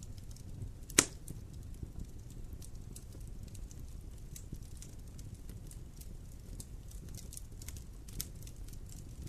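Campfire burning, the wood crackling in scattered small pops over a low steady rumble. One loud sharp pop about a second in and a lighter one near the end.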